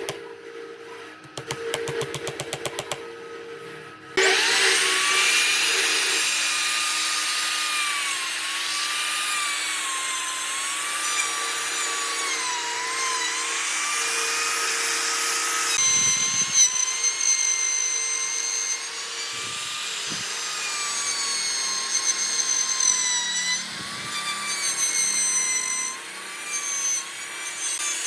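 Electric power tool working wood, its motor whine dipping and recovering in pitch as it bites into the wood. For the first four seconds, before it starts, a rapid even ticking.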